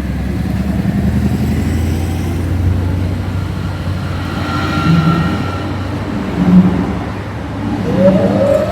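Motor vehicles passing close by, a low running hum with several swells in loudness and a short rising whine near the end.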